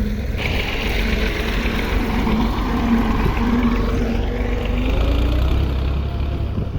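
Tractor engine running steadily at low revs, its note wavering a little and rising slightly about four to five seconds in.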